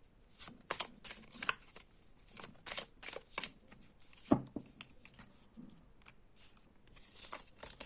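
A deck of cards being shuffled by hand: a run of irregular soft flicks and snaps, the sharpest about four seconds in.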